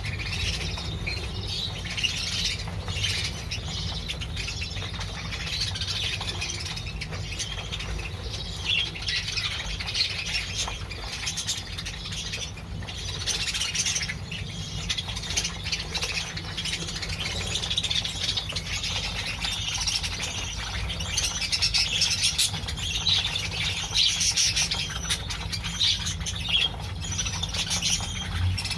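A colony of budgerigars chattering and squawking, many birds calling over one another without a break, over a steady low hum.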